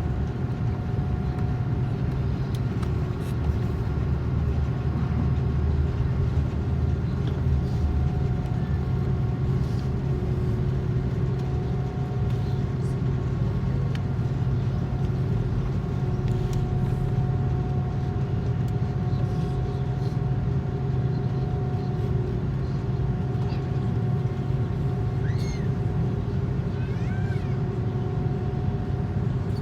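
Airbus A330 airliner running on the ground: a steady low drone with a constant pitched hum over it, and a few brief high squeaks near the end.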